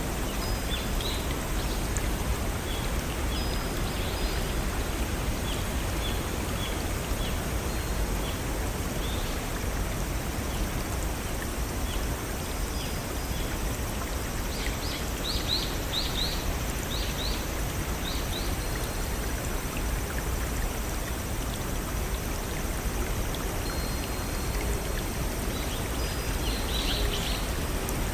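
Steady rush of a small stream and waterfall, with birds chirping over it: scattered short high chirps, and a quick run of chirps about halfway through and again near the end.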